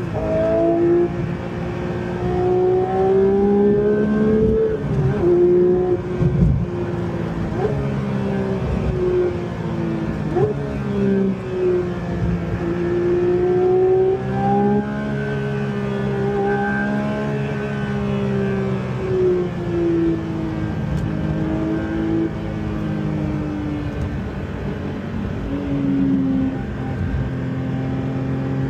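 Porsche 911 flat-six engine under hard driving, revs climbing and dropping repeatedly as it pulls through the gears and shifts.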